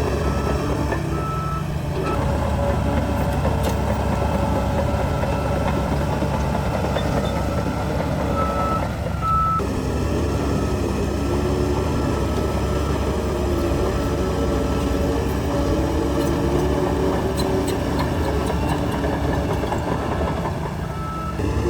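Heavy diesel earthmoving machinery running steadily, with a backup alarm giving short high beeps near the start, around the middle and near the end.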